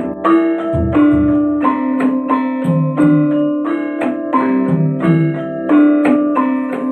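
Malay gamelan ensemble playing: struck bronze metallophones and kettle gongs ring out in a steady run of notes, about three a second, with low drum strokes about a second in.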